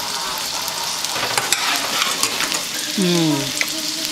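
Onion rings sizzling in a frying pan: a steady hiss with many small pops. About three seconds in, a short falling hum settles into a steady tone over the sizzle.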